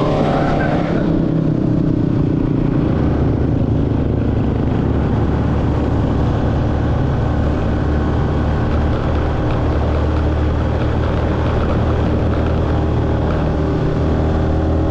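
Car engine and road noise heard from inside a moving car: a steady, even drone with no change in pace.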